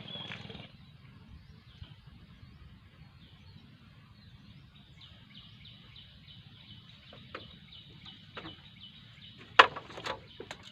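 A bird calling a rapid, regular series of short high chirps, about three a second, through the second half. A few sharp knocks come near the end, the loudest about a second before the end.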